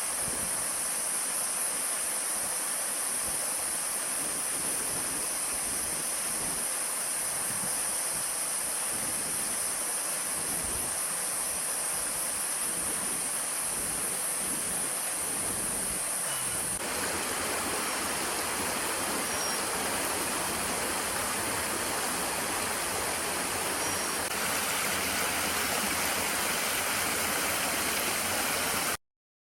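Steady rushing of a stream, an even hiss of running water with a bright high edge. It shifts slightly about two-thirds of the way through and cuts off just before the end.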